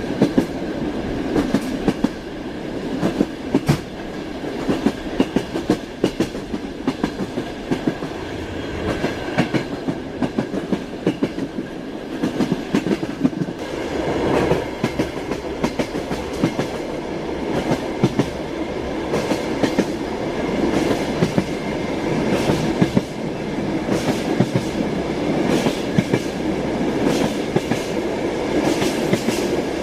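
Train wheels knocking over rail joints in an irregular clatter, over the steady rumble of a moving train.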